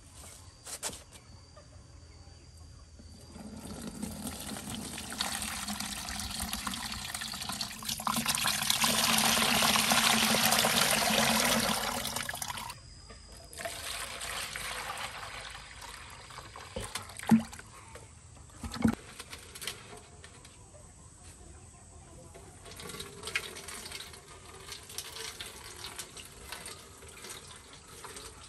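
Water running for several seconds, growing louder towards the middle and then cutting off suddenly, followed by a few light knocks and clicks.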